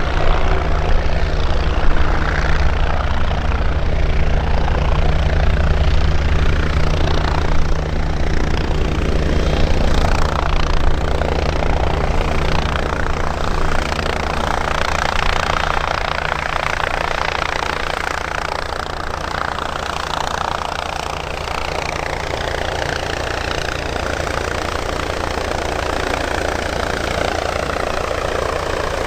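MBB Bo 105 light helicopter running steadily: a low, even rotor and engine drone under a loud turbine hiss. It eases slightly in loudness after about half way, and in the second half the hiss slowly sweeps up and down in pitch.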